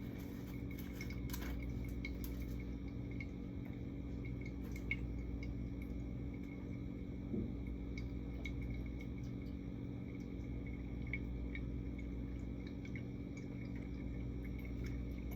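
Steady low hum with a few faint clinks and taps of bottles and containers being handled, and one slightly louder knock about halfway through.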